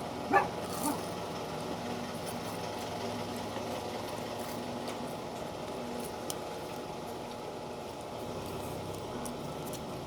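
A dog gives a short, high yelp about half a second in and a fainter one just after, over a steady low background hum.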